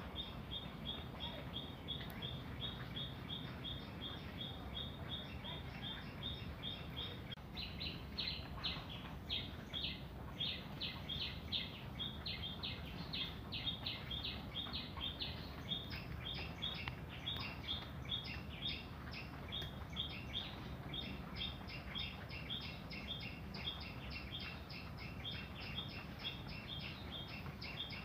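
Small bird chirping over and over in short, high notes, about four a second. The notes get louder and more varied after about seven seconds. A low, steady background hum runs underneath.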